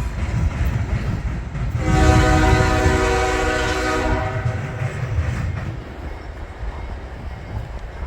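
Diesel freight locomotive's air horn sounding one chord blast of about two seconds, a couple of seconds in, over the steady low rumble of the train.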